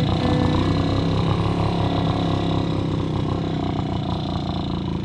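Puch Maxi moped's small two-stroke single-cylinder engine running steadily under way.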